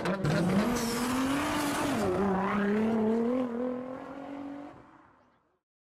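Race-car engine sound effect: an engine note that climbs, dips about two seconds in, then climbs slowly again and fades out near the end.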